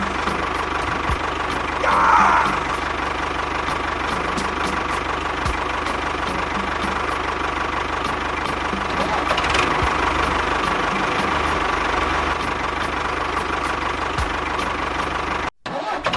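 Small motor of a mini bulldozer model running steadily with a constant whine. A brief louder squeal comes about two seconds in, and the sound cuts out for a moment near the end.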